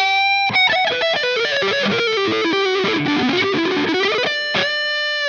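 Electric guitar played through a DOD Looking Glass FET overdrive pedal in a lead line: a held note, then a run of quick single notes, ending on another long sustained note.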